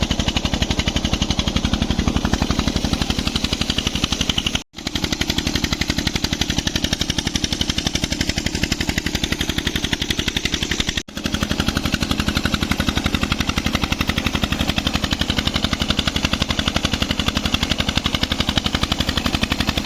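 Petter stationary diesel engine of a tubewell running steadily, with a fast, even chugging exhaust beat. The sound cuts out for an instant twice.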